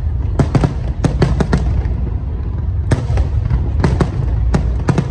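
Aerial fireworks exploding in a display: a quick string of sharp bangs in the first second and a half, then scattered bangs, over a steady low rumble.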